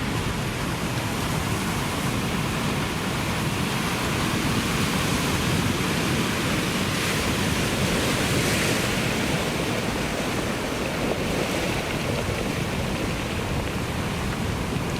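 Ocean surf: a continuous wash of breaking waves that swells slightly for a few seconds in the middle.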